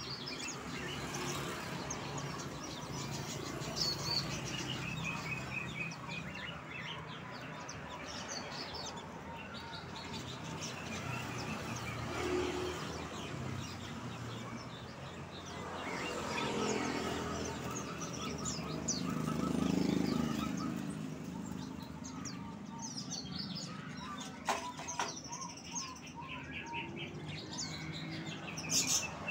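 Small songbirds chirping and twittering in many short, repeated calls, over a continuous low rumble that swells and fades around the middle. A few sharp clicks come near the end.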